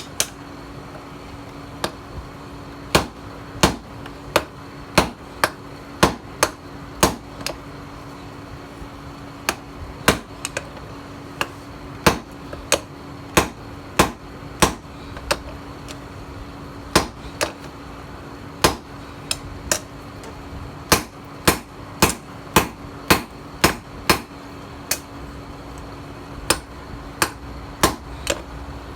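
Hammer blows on a steel tiller blade being forged into a knife: runs of sharp strikes, about one to two a second, broken by short pauses, over a steady hum.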